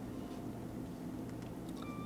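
Low steady background hum with a few faint clicks; a held electronic-sounding tone comes in near the end.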